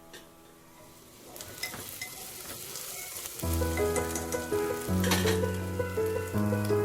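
Food frying in a pan, with crackling and sizzling that builds gradually. About halfway through, background music comes in over it.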